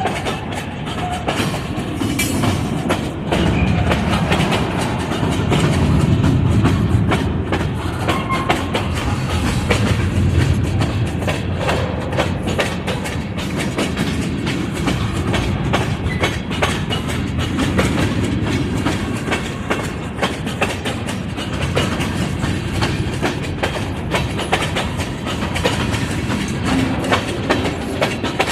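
Wisconsin Southern ballast train's freight cars rolling past: a steady low rumble with continual clicking of wheels over rail joints.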